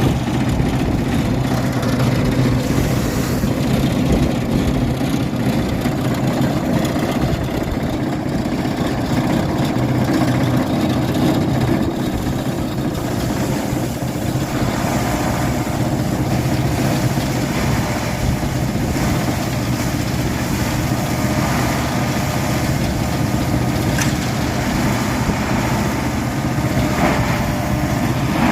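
An engine running steadily at idle, a constant low-pitched hum.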